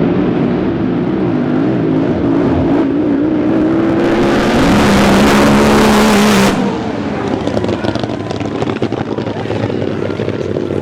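Racing drag boat engine running, its pitch wavering up and down. From about four seconds in it grows louder with a rushing hiss, then cuts off suddenly about two and a half seconds later, leaving a lower, rougher engine sound.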